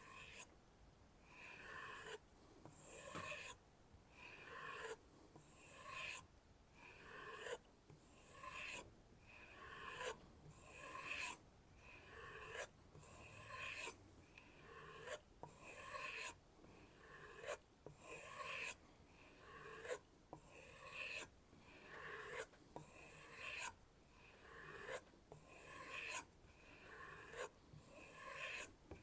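Knife blade stropped by hand on a kangaroo-tail leather strop: faint, regular rubbing strokes, about one every second and a quarter, each swelling and then cutting off as the stroke ends.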